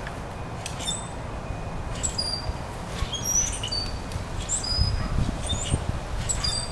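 Small songbirds chirping: short, high chirps and whistled notes repeating throughout, over a steady low rumble.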